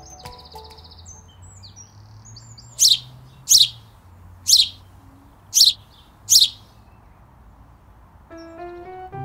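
A bird calling five times: loud, short, high calls that each sweep down in pitch, with fainter chirps from other birds in the first couple of seconds. Background music with piano-like notes comes in near the end.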